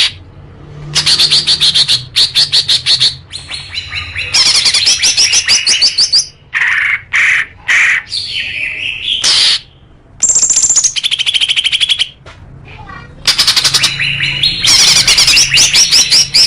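Songbird singing loud bursts of rapid, chattering trills and quick repeated notes, with short pauses between phrases.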